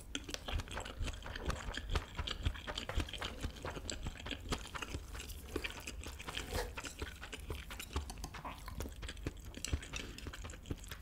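Close-miked chewing of a mouthful of kimchi fried rice with melted cheese and fried egg: a dense run of small, quick mouth clicks.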